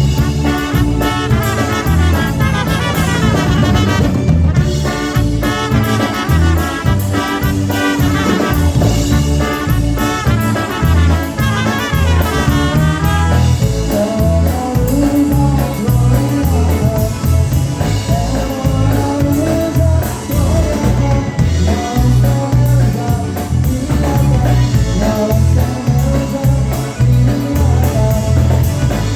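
Live polka band playing a polka: a bouncing oom-pah bass, brass and a drum kit keeping the beat, with a sung vocal.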